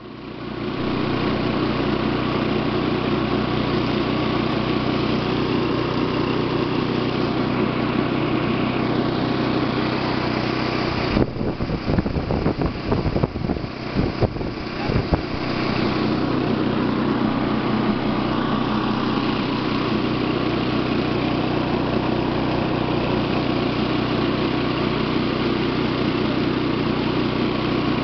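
A mototaxi's small motorcycle engine runs steadily at cruising speed, with wind and road noise from the open cab. For a few seconds about halfway through, loud irregular thumps of handling on the recording device cover it.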